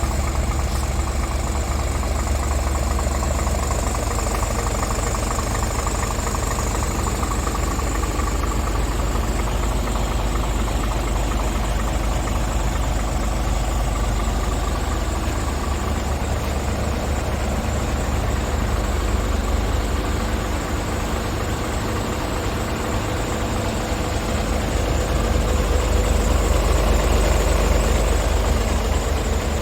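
Scania R450 truck's 13-litre straight-six diesel engine idling steadily, a little louder for a few seconds near the end.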